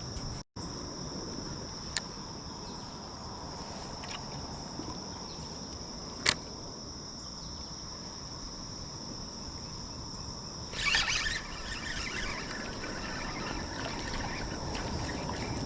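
Insects trilling steadily in one high, unbroken chorus over an even background wash. Two sharp clicks come about two and six seconds in, and a short noisy rustle about eleven seconds in.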